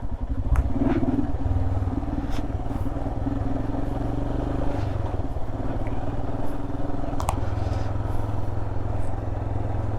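Royal Enfield Himalayan's 411 cc single-cylinder engine running steadily at low speed, with scattered knocks and rattles as the bike jolts over a rough, broken road.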